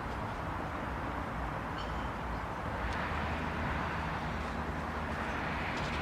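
Steady street traffic noise of cars going by, swelling a little about halfway through.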